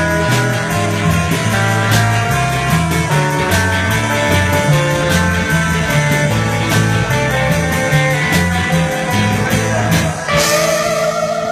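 Live instrumental rock band playing: lead electric guitar carrying the melody over rhythm guitar, bass guitar and drums. About ten seconds in it closes on a held final chord with a cymbal crash ringing out.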